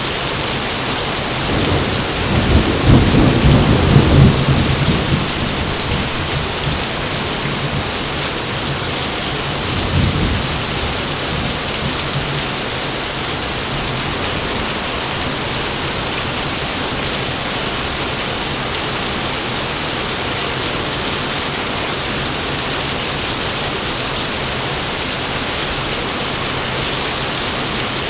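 Steady heavy rain, with a long, loud roll of thunder about two seconds in and a shorter, fainter rumble about ten seconds in.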